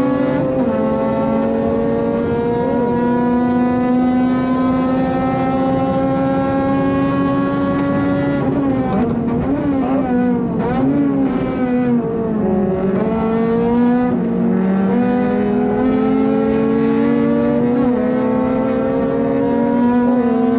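Honda Civic FD2's four-cylinder engine at high revs, heard from inside the car at racing pace. The pitch climbs slowly and steadily for several seconds. About halfway through the revs drop and waver, as under braking and downshifting into a corner, then they climb again under acceleration.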